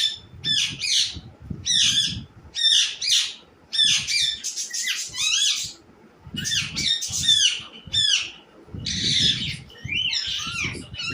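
A bird squawking and chirping in repeated bursts of harsh, quickly bending calls, several a second, with short pauses between bursts.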